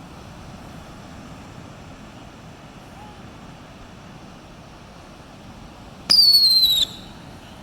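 A whistling firework lets out one loud, high shriek lasting under a second near the end, its pitch sliding slightly downward before it cuts off sharply, over a steady background hiss.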